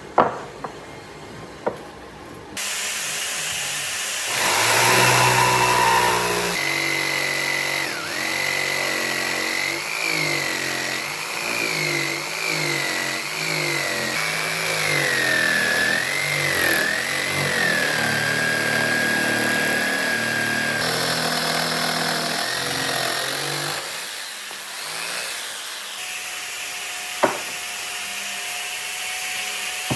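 Power tool working wood. Its motor whine repeatedly sags and recovers, as happens when a tool loads up while cutting, then settles to a steadier pitch and drops back near the end. There are a few sharp clicks at the start and one near the end.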